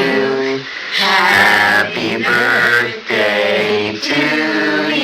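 Voices singing unaccompanied, in held notes broken by short pauses about once a second.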